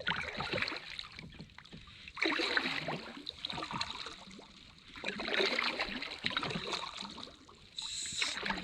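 Kayak paddle strokes in the water: a splashing swash with drips every two to three seconds, the strongest about two seconds in and again about five seconds in.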